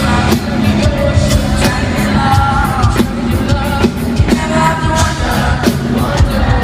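Live pop-rock band performing in an arena: a singer's voice over drums, bass and guitars, with regular drum hits.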